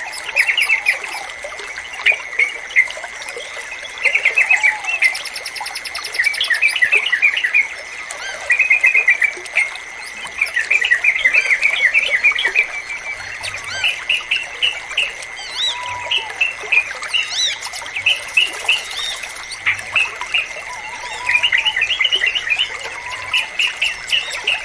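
Yellow-vented bulbuls (trucukan) singing short, quick bubbly phrases again and again, every second or two, over trickling water and a steady high tone.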